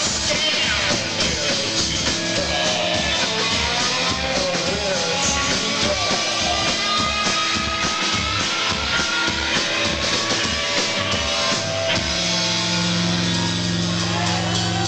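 Live rock band playing an instrumental passage: drums and bass keep a steady driving beat under electric guitar lines. About twelve seconds in the beat drops out, leaving a held, sustained chord ringing.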